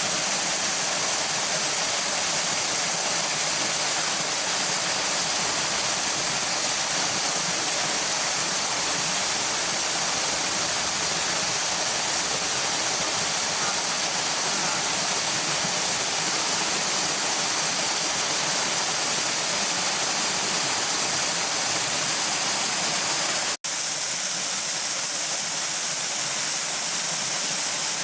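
Waterfall rushing in a steady, loud, even roar of falling water, broken once by a split-second dropout about three-quarters of the way through.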